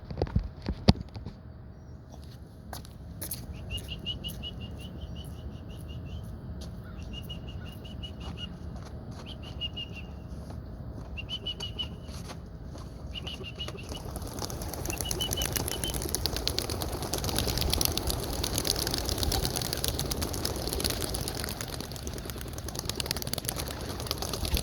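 A few knocks near the start, then a flock of young racing pigeons taking off together about two-thirds of the way in: a dense clatter of many wings flapping that grows louder and continues. Before the take-off a small bird chirps in short repeated trills in the background.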